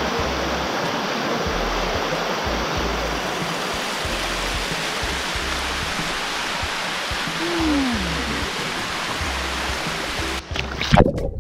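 Waterfall water rushing steadily. About ten seconds in the water sound cuts off abruptly and music begins.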